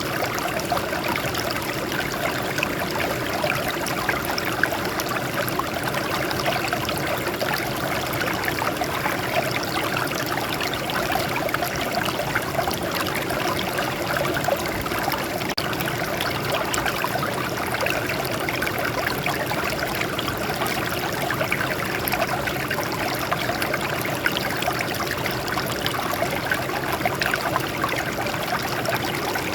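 Water flowing over and trickling from rocks, a steady splashing babble that stays even.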